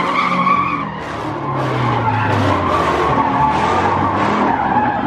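Car tyres squealing in a sustained skid, with the engine running hard underneath.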